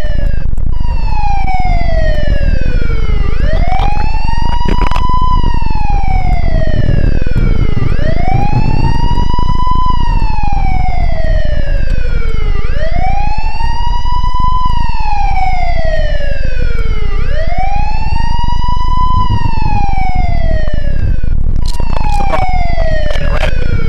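Police siren wailing in a repeating cycle: each wail climbs quickly to a high peak, then slides slowly down, about every four to five seconds. Under it runs the low rumble of a car driving in pursuit.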